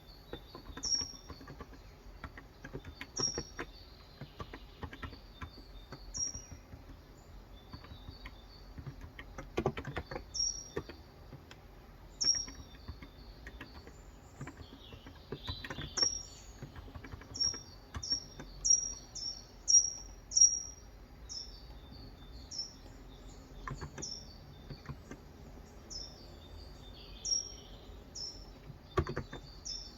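A bird chirping over and over: short high notes that drop in pitch, coming every second or two and quicker, about two a second, near the middle. A few scattered keystrokes on a Cox Endeavour 35 g electro-capacitive keyboard sound between the chirps.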